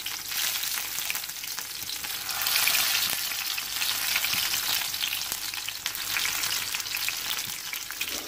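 Stuffed bitter gourds (karela) sizzling and crackling in shallow oil in a pan over a low flame as more are laid in, with a louder stretch about two and a half seconds in.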